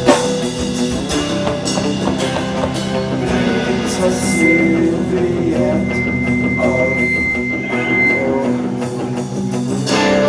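Live metalcore band playing: distorted electric guitars hold ringing chords under drum and cymbal hits. A steady high whine sits over the guitars for about four seconds in the middle.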